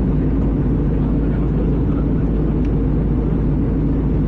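Steady in-flight cabin noise of an Airbus A320: engine and airflow noise heard inside the cabin as an even low rumble.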